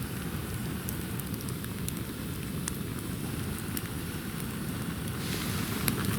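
Campfire crackling steadily, with scattered sharp pops and two louder snaps near the end.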